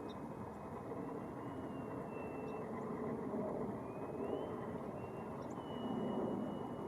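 Steady outdoor background rumble that swells twice, with a faint thin high whine wavering in pitch and a few faint high ticks.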